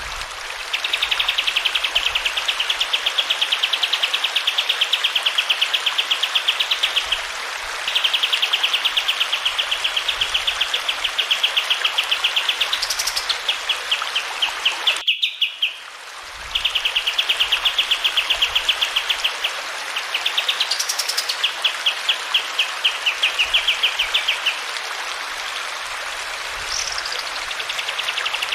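A kapas tembak (striated grassbird) sings long, fast, even trills of several seconds each, with a sharp rising note now and then, over a steady background of running water.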